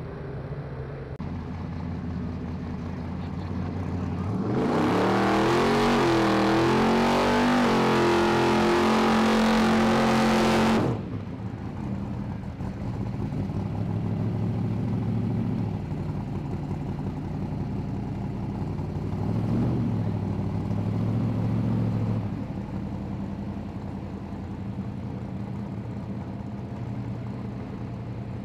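A drag car's engine revs hard for about six seconds over a loud hiss, which cuts off suddenly. Then a Chevrolet El Camino drag car's engine idles with a couple of short throttle blips.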